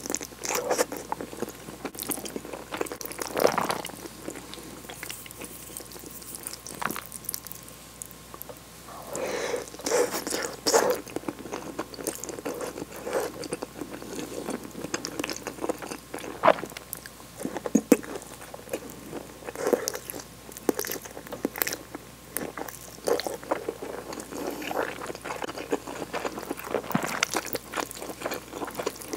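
Close-miked chewing of tomato cream spaghetti, with irregular clicks and smacks from the mouth that come in uneven clusters.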